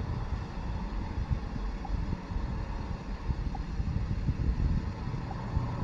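Low, uneven rumble of wind buffeting the microphone over a running vehicle engine, with three faint short ticks spread through it.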